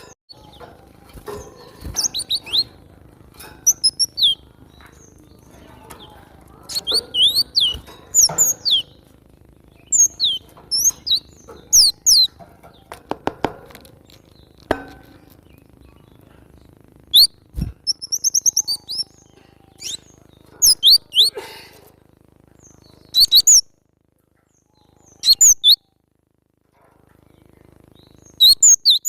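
Cinereous tit (gelatik batu) calling: clusters of short, high, quickly falling chirps separated by pauses, over a low background hum. About halfway through there is a quick run of sharp clicks, and a single thump a few seconds later.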